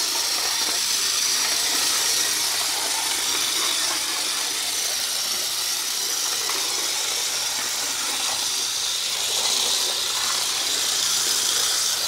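HO scale model diesel locomotive running steadily along the track: its small electric motor and wheels give an even, high-pitched whirring hiss.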